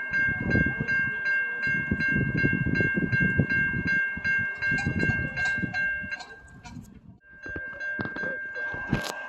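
Railway level-crossing bell ringing with rapid repeated strikes while a train's wheels rumble and clatter over the rails. The train noise dies away about six seconds in; the bell pauses briefly, then rings on, and there is a sharp click near the end.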